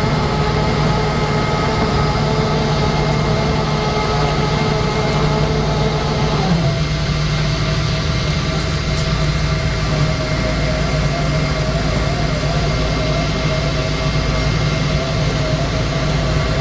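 Boeing 777-200 jet engines running with a steady low rumble and whine. About six and a half seconds in, the whine changes pitch.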